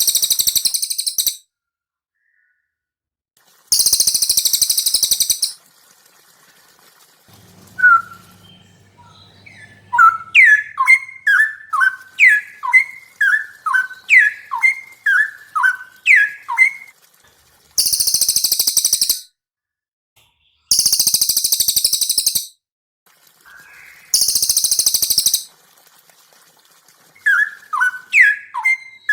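Caged songbirds, cililin and cucak rowo (straw-headed bulbul), singing in turn. Very high, dense trills of about a second and a half recur five times. Between them runs a quick series of sharp downward-slurred whistled notes, about two a second.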